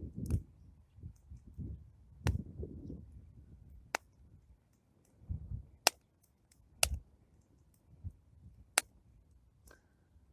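Plum-log campfire burning, the wood giving about five sharp, separate pops spread a second or two apart, with low rumbling between them.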